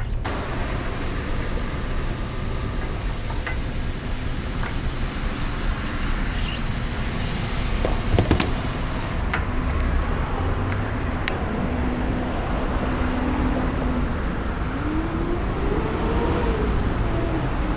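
Continuous road-vehicle noise: a steady engine and traffic rumble with a few sharp clicks in the middle. Near the end an engine rises and falls in pitch several times.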